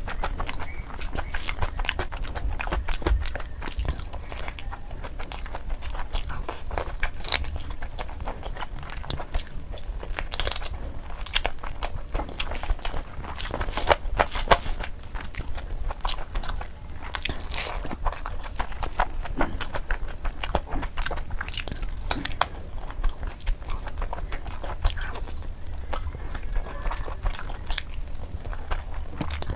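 Close-miked eating sounds: chewing and lip-smacking of rice and biryani eaten by hand, a dense, unbroken run of small wet clicks and smacks.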